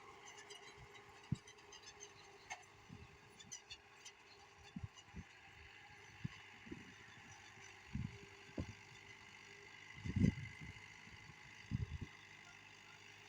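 An engine running faintly and steadily, with scattered short low thumps.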